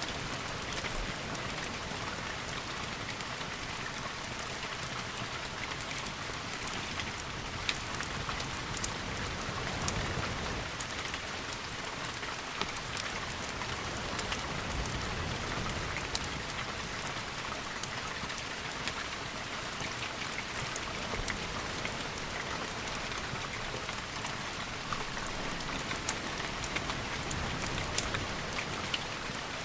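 Steady rainfall with scattered sharp ticks, and a low rumble that swells a couple of times, about ten and fifteen seconds in.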